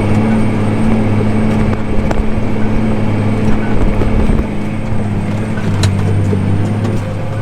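Farm tractor's diesel engine running steadily while working a field with a tillage digger, a loud even drone with a low hum and a few faint clicks.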